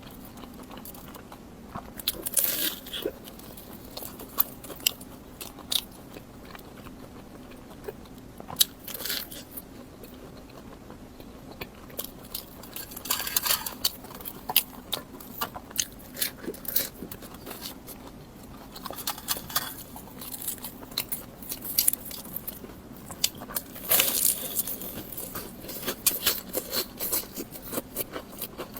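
Close-miked eating: a person biting and chewing food, with irregular clusters of sharp, crackly clicks between quieter pauses.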